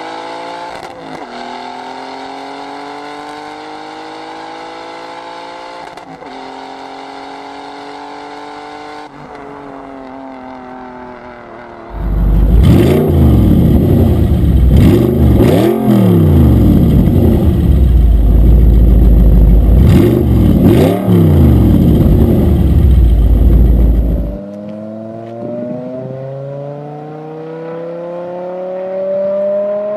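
Tuned Subaru Impreza WRX STi's turbocharged flat-four engine and exhaust pulling hard, its pitch climbing through several gears with shifts early on. In the middle comes a much louder, distorted stretch of revs rising and falling over and over. Near the end the engine climbs again under acceleration.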